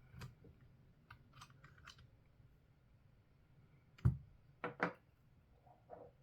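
Small clicks and taps of tools and parts being handled during the disassembly of a radio transceiver, with one louder knock about four seconds in followed by two quick clicks.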